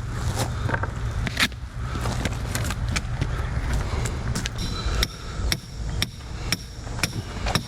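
Hammer striking metal again and again: irregular blows at first, then about two a second in the second half, some with a ringing metallic note. A low steady rumble runs underneath.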